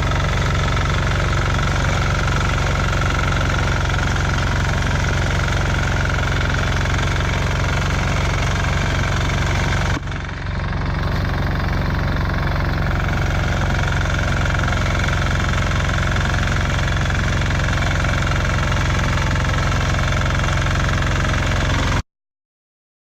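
Motor Sich walk-behind tractor engine running steadily while digging potatoes with a KVG-1V digger. There is a brief dip about halfway through, and the sound cuts off abruptly near the end.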